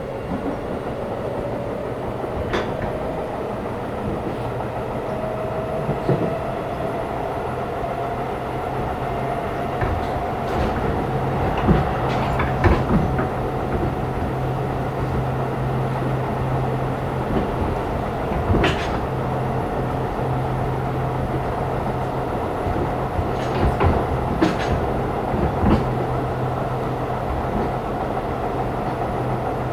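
Running sound inside a Keisei 3500 series motor car (MoHa 3514) under way. The traction motor whine rises slightly in pitch over the first ten seconds or so, then holds steady over a low running hum. Wheels click over rail joints here and there, loudest a third and two-thirds of the way in.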